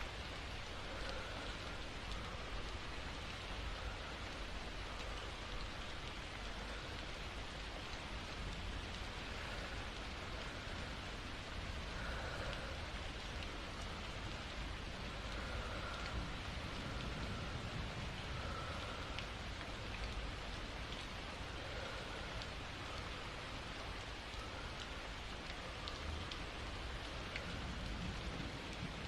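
Steady rain falling, an even wash of noise with no pauses.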